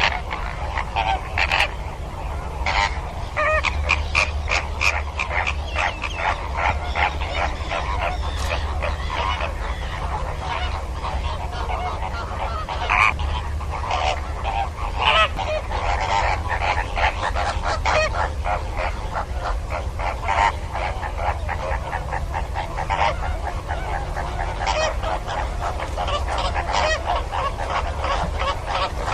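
Flock of flamingos calling, many goose-like honks overlapping in a constant chatter, over a steady low hum.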